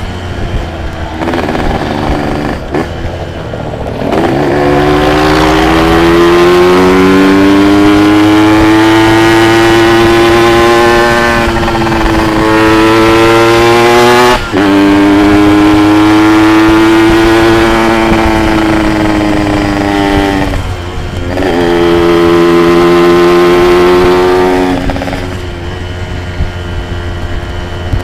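Yamaha RX-King's two-stroke single-cylinder engine under hard acceleration while riding, its note rising as it pulls. It cuts out for a moment about fourteen seconds in, then carries on. It eases off around twenty seconds, pulls again briefly, then drops back to a quieter low running.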